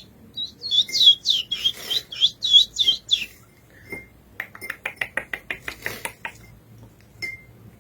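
Curió (chestnut-bellied seed finch) singing a phrase of about ten clear, down-slurred whistled notes, followed about a second later by a quick run of short sharp clicks.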